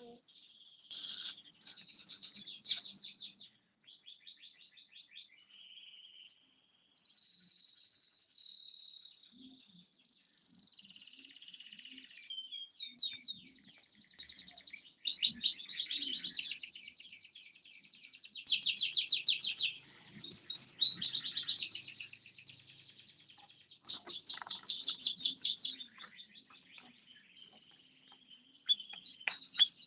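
Bar-winged prinia (ciblek) singing in long runs of rapid, high trills and chirps with short sliding notes. The loudest, densest trills come about halfway through, again just before 20 seconds in, and near 25 seconds in.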